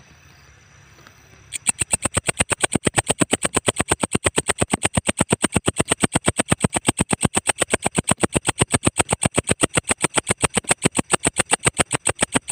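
Walang ecek insect calling: a fast, even train of loud dry ticks, about seven a second. It starts about a second and a half in and stops near the end.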